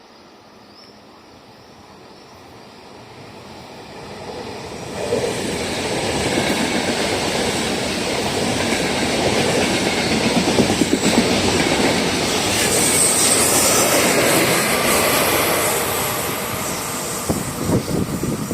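A train approaches and passes close by. It grows louder over the first five seconds, runs loud with wheels clattering over the rails and a high wheel squeal, then fades near the end with a few sharp clacks.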